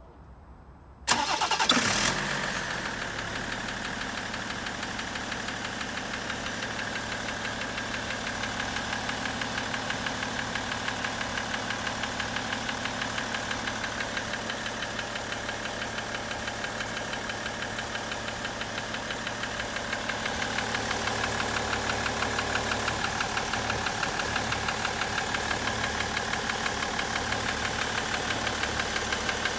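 BMW 535d's M57N straight-six diesel starting about a second in, then idling with an even knocking pulse. The owner suspects detonation in a cylinder from poor injector spray, and the title says a piston was knocking.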